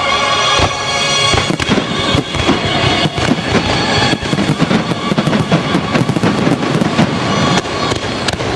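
Dense, irregular crackling and popping over music.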